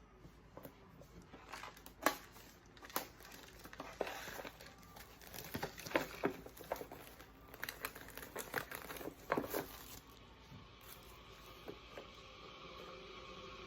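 Packaging being crinkled and torn open: a run of irregular rustles, crackles and sharp clicks that dies away near the end.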